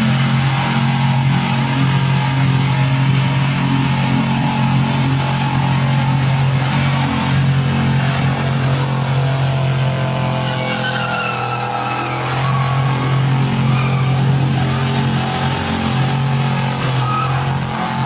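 Car engine held at steady high revs while the car drifts. About halfway through, tyres squeal in wavering, rising and falling wails.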